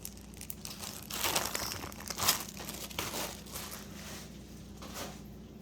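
Plastic bag crinkling and rustling as it is handled, in short irregular rustles.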